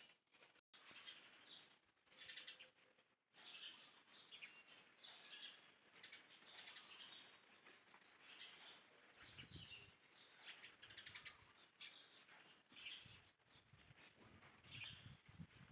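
Faint, short, high-pitched chirping calls repeated about once or twice a second, with low rustling from about nine seconds in.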